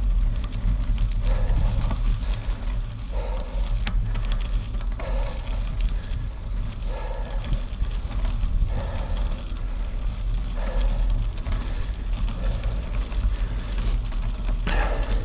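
Steady wind rumble on the microphone of a moving gravel bike, with a short sound repeating about every two seconds.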